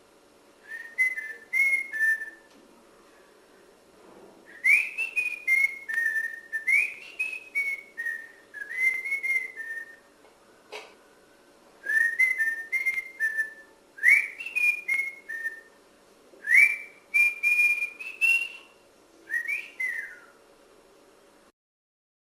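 A person whistling a tune in short phrases of a few gliding notes, with pauses between the phrases. A single click sounds about eleven seconds in.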